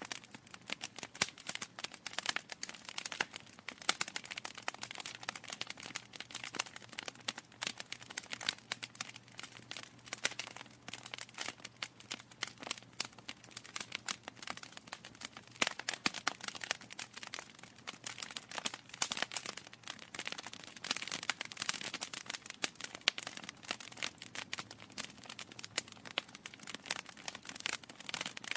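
Wood fire crackling in a fireplace: a dense, irregular stream of small pops and snaps from burning logs.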